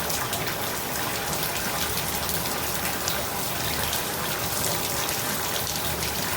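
Water running steadily from a Delta shower valve turned to full hot, its hot-limit stop just reset so the water now comes out hot instead of lukewarm.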